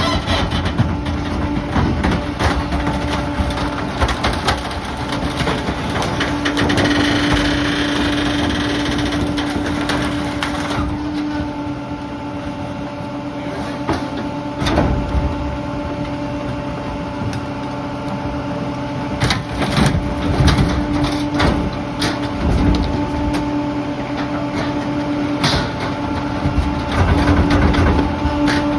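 Garbage truck's engine and hydraulic packer running with a steady hum, a brighter hiss that drops away about eleven seconds in, and scattered knocks and clatter of debris being handled.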